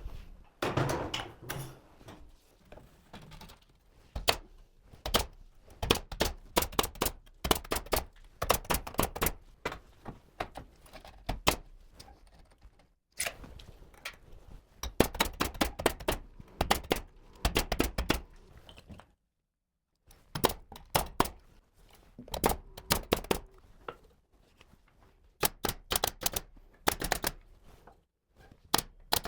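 Bursts of rapid, sharp shots from a pneumatic nail gun driving nails into wooden ceiling framing. Several shots a second come in runs, with short pauses between them.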